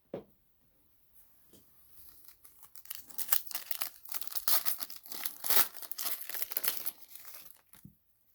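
Plastic wrapping of trading card packs being torn open and crinkled: a dense crackling that builds from about two seconds in and stops shortly before the end, after a single soft knock at the start.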